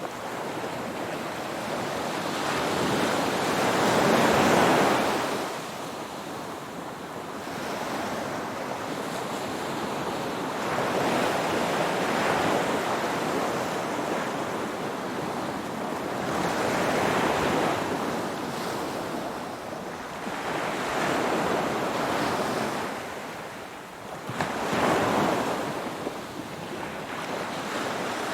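Ocean waves washing in, a steady hiss that swells and fades in about five surges, the strongest one about four seconds in.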